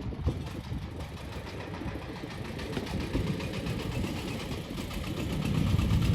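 30 hp Dong Feng diesel engine running a corn sheller, a steady fast knocking beat, getting clearly louder in the last second or so.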